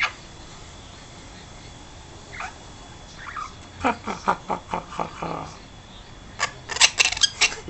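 Young princess parrot chattering in short, rapid calls and squawks, starting faint a couple of seconds in and coming in quick runs about four seconds in and again near the end.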